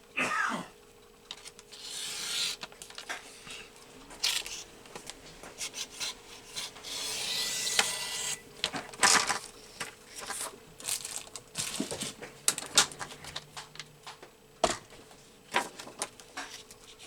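Paper being handled and trimmed on a paper trimmer: rustling and sliding, one longer scraping run as the blade cuts, and many light taps and clicks. A faint steady hum runs underneath.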